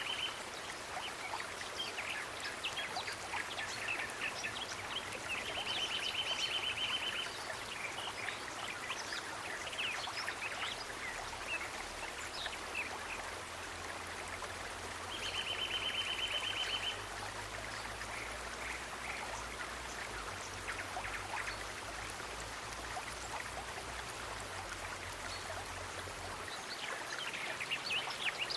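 Natural outdoor ambience of running water with scattered short high chirps. A rapid, even, high-pitched trill of about a second and a half repeats twice, some ten seconds apart. A faint low rumble runs through the middle.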